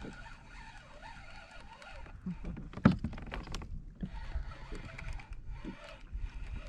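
Handling noises aboard a plastic kayak over a low, steady rumble of wind and water, with scattered small clicks and one sharp knock about three seconds in.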